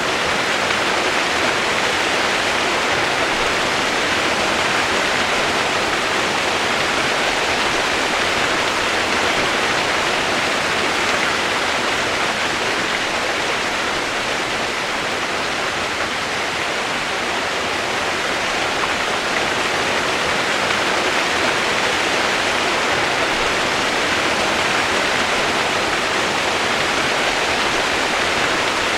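Steady rushing water, a continuous even hiss with no change in level.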